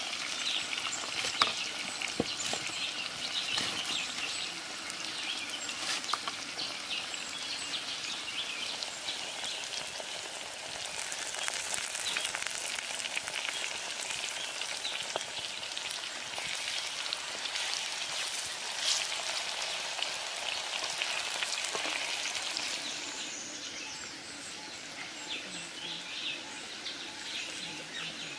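Hot oil sizzling with steady crackles and pops as fish patties deep-fry in a pan over a wood fire. The sizzle eases a little near the end.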